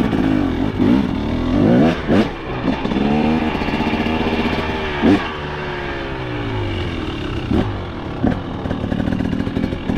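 Two-stroke KTM 300 XC dirt bike engine revving up and down repeatedly, its pitch rising and falling several times, over the steady lower note of another bike idling close by.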